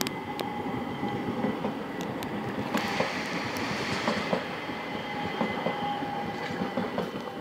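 ÖBB Talent electric multiple unit (class 4024) passing on the main line: steady rumble of wheels on rail with scattered sharp clicks over rail joints, and a louder rushing swell about three to four seconds in as the train goes by.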